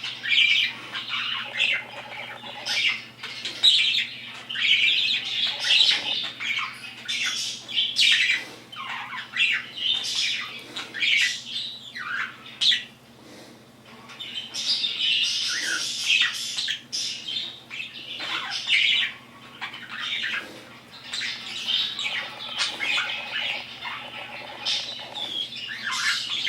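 Bird squawking and chirping almost without pause: harsh, raspy calls following one another in quick succession, with a short lull about halfway through.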